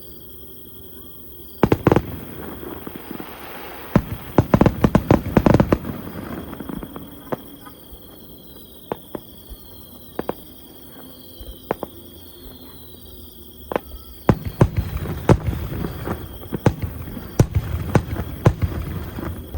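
Aerial fireworks bursting in sharp bangs and crackles: a loud pair of bangs about two seconds in, a rapid cluster a few seconds later, scattered single cracks, then dense crackling through the last five seconds.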